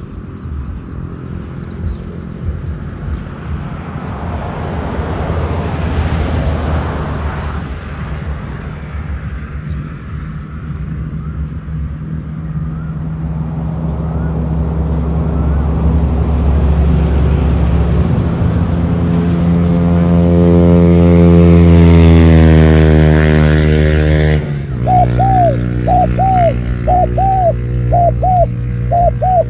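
A motor engine runs steadily and then rises in pitch and loudness as it speeds up. It breaks off abruptly at about 24 s. After that, spotted dove coos repeat in quick short notes over a low steady hum.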